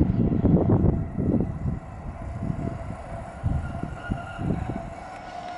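Class 155 diesel multiple unit running noise, loud irregular low rumbling for about the first two seconds, then settling quieter. A faint steady tone comes in during the second half.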